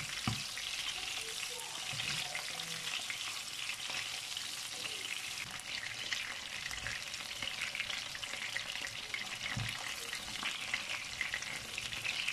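Ground-meat köfte patties frying in shallow oil in a pan, a steady crackling sizzle. A few soft knocks as a silicone spatula turns the patties over.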